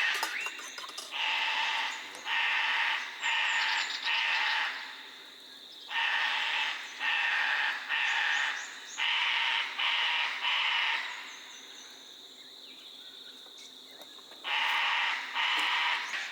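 A crow calling in series of harsh, drawn-out caws, five or six to a series, the last of each series fading away. Three series sound, the second starting about six seconds in and the third near the end. Small birds chirp faintly in between.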